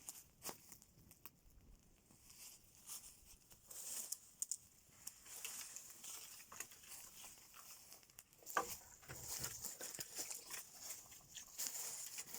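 Irregular light crackling and rustling, with one sharper knock about eight and a half seconds in.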